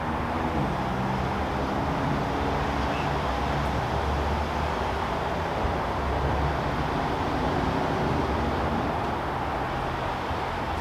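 Steady hum of distant road traffic, with a vehicle's engine swelling slightly and fading again in the middle.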